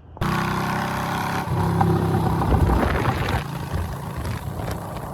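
Motorcycle engine running, cutting in suddenly, revving up about a second and a half in and easing back to a steadier, lower level a couple of seconds later.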